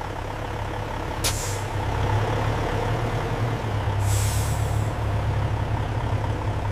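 Truck engine idling steadily with two hisses of released air from its air brakes, a short one about a second in and a longer one about four seconds in.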